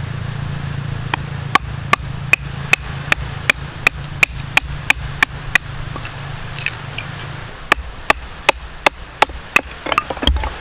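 Firewood being chopped with a blade: sharp, evenly paced strikes on wood, about three a second, in two runs with a short pause between them.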